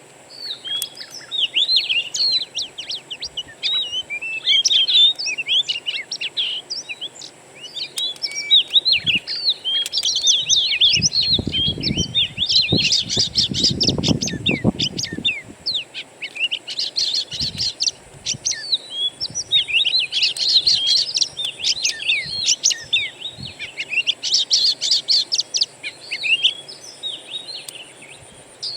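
Wild songbirds chirping and twittering in quick, overlapping phrases of short rising and falling notes, with a low rumble about halfway through.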